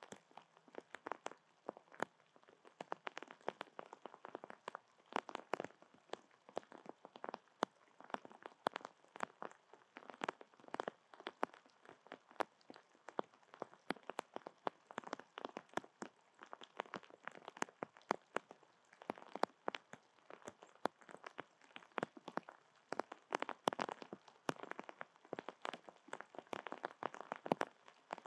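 Rain falling on surfaces close by: a dense, irregular run of small ticks.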